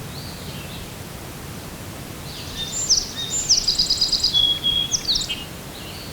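A songbird sings one high phrase of quick repeated notes and a trill, lasting about three seconds and starting a couple of seconds in, over a steady outdoor hiss.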